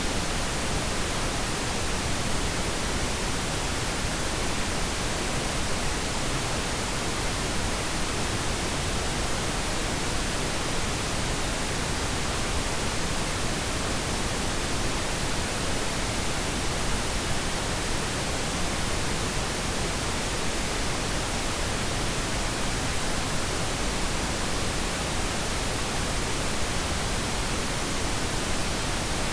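Steady, unchanging pink noise: an even hiss spread across all pitches, with no breaks or events.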